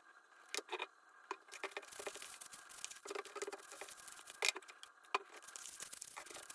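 Hands working on a small leather baseball glove: scattered, irregular clicks and taps, the sharpest about four and a half seconds in.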